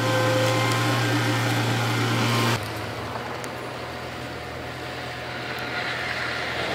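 Diesel engine of heavy earthmoving machinery running steadily with a strong low hum. About two and a half seconds in it cuts abruptly to a quieter, duller engine sound.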